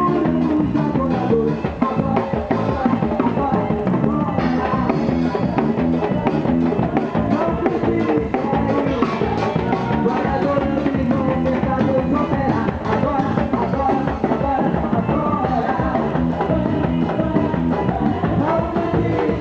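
A band playing Christian worship rock, with a drum kit keeping a steady beat under electric guitar and singing.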